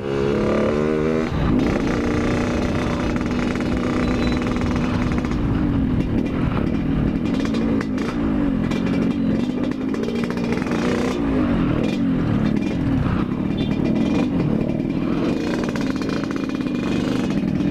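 Yamaha RX-King two-stroke single-cylinder motorcycle engine revving hard under way, its pitch climbing and then dropping again and again as it is run up and shifted through the gears.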